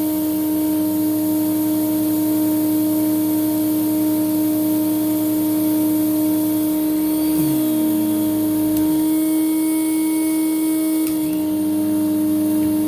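Hoover Celebrity Quiet Series canister vacuum running with its power nozzle set to deep clean: a steady, strong motor hum with a buzz from vibrating plastic parts. Around the middle a lower part of the sound sags in pitch and drops away, then picks back up near the end.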